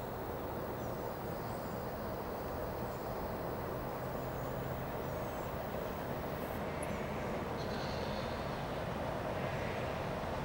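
Distant rumble of an approaching Norfolk Southern diesel freight train, slowly growing louder.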